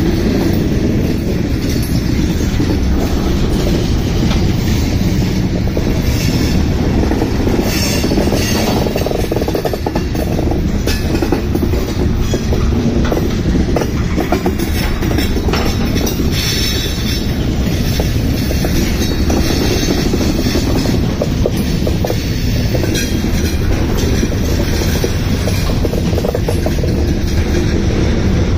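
Freight train cars rolling past: a steady heavy rumble with wheels clicking over rail joints and brief squeals from the wheels now and then.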